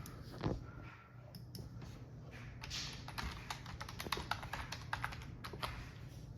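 A rapid, irregular run of light clicks and taps, thickest from about two and a half to six seconds in.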